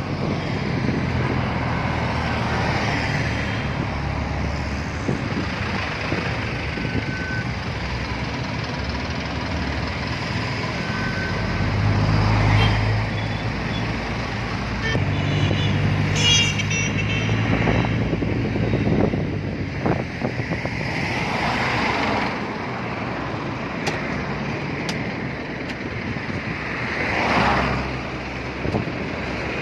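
Road traffic: a vehicle engine running steadily while other vehicles pass every few seconds, with a short high-pitched toot about halfway through.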